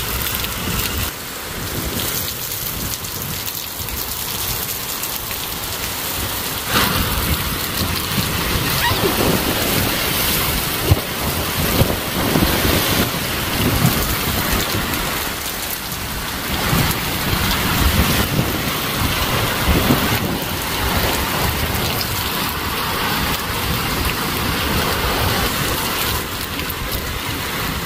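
Heavy hurricane rain pouring down in a dense, steady hiss, with a low rumble that surges and fades. There are a few sudden louder moments, the sharpest about eleven seconds in.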